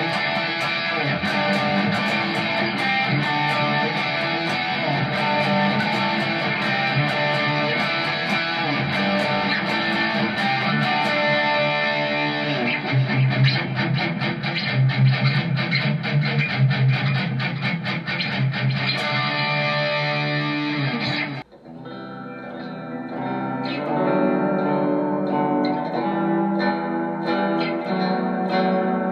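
Squier electric guitar played through presets of an M-VAVE MK-300 multi-effects unit, with notes and chords in a bright, effected tone. About three-quarters of the way through, the sound cuts out for a moment and resumes with a different, darker tone, as the next preset is switched in.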